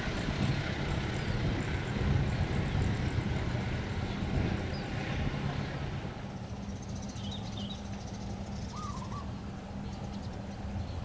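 A train's rumble fading away as it moves off, over a steady low diesel engine hum. Birds chirp a few times in the second half.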